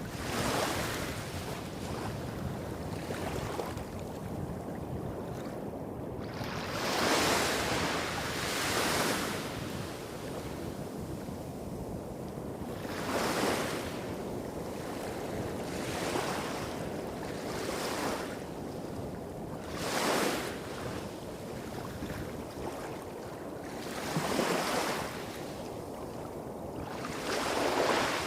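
Small waves breaking and washing up a beach, one every few seconds, over a steady low rumble of larger waves hitting rocks a few hundred metres off.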